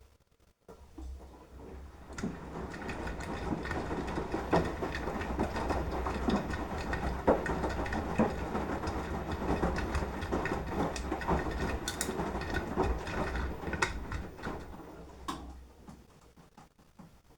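Beko front-loading washing machine tumbling a wash load: the drum motor runs with a low hum while the laundry and water slosh and knock inside the drum with irregular small clatters. It starts about a second in, builds, holds steady, then winds down and stops near the end, one turn of the wash cycle's rotate-and-pause rhythm.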